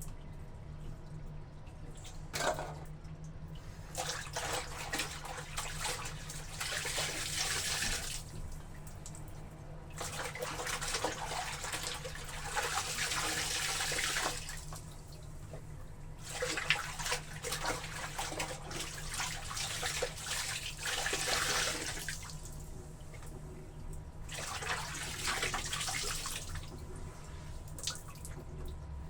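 Water sloshing and splashing in a tub as laundry is worked in it, coming in stretches of a few seconds with short quieter pauses between. A steady low hum runs underneath.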